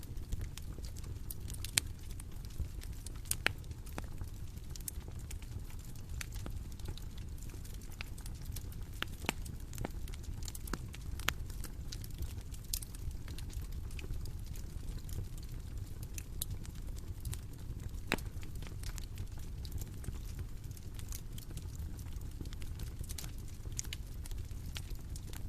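Bonfire crackling: irregular sharp pops and snaps over a steady low rumble of the burning fire.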